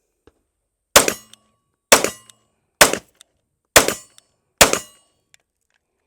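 Five 9mm pistol shots from a SIG P320 Equinox Custom Works, fired about one a second, each sharp crack followed by a short echo.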